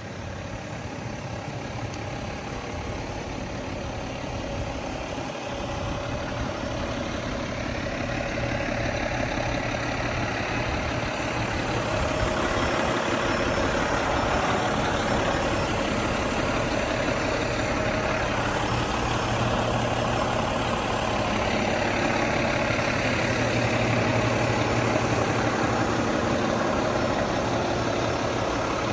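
Mack MP7 10.8-litre diesel engine of a garbage truck running steadily. It grows louder over the first dozen seconds, then holds steady.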